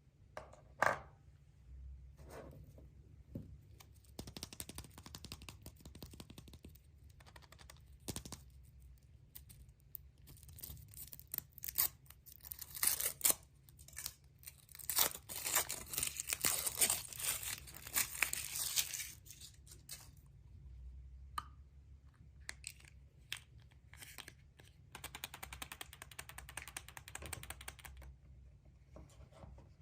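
A surprise egg's wrapper being torn open and crinkled by hand, with scattered clicks and taps. The tearing and rustling is densest in the middle and comes again near the end.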